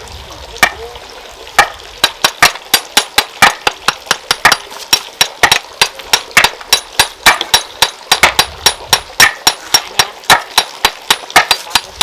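Quick, evenly repeated sharp strikes of a hammer on stone, about four a second, beginning a second or so in.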